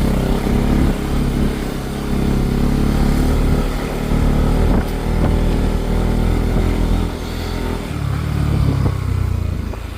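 A vehicle engine running throughout at varying speed, its pitch shifting up and down over a steady rushing noise.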